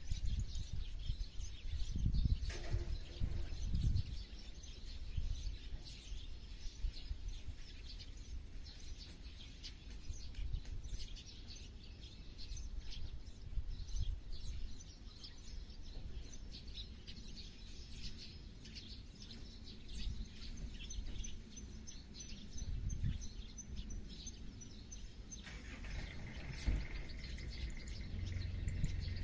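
Several birds chirping and singing in the countryside, with many short high calls and, near the end, a quick run of repeated high notes. An uneven low rumble runs underneath.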